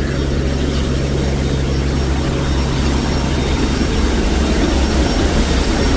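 Transport plane's engines droning steadily inside the cargo hold, mixed with rushing air from the opening at the back of the aircraft. A low hum in the drone drops away a little past halfway.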